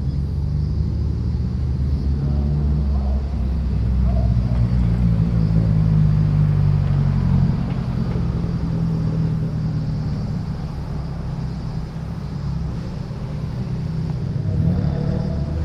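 Car engines and exhausts rumbling at low revs as cars pull away slowly, the note shifting a little as they move off.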